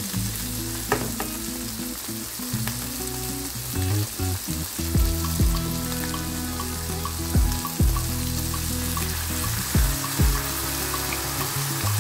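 Minced meat and vegetables sizzling in a frying pan while being stirred with a wooden spatula, a steady frying hiss. Background music with held low notes and a few deep bass thumps plays over it.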